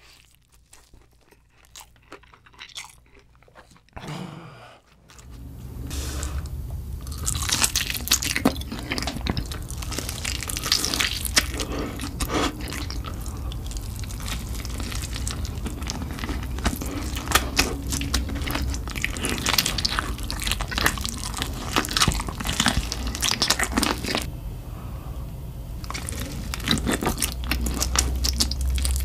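Close-miked eating of sauce-glazed fried chicken: quiet, sparse chewing at first, then about five seconds in, loud, dense crunching and chewing of the crispy coated crust over a steady low hum, with a brief lull near the end.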